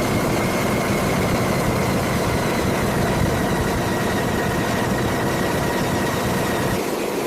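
A machine running steadily, with a faint high whine over it. It cuts off abruptly at the end.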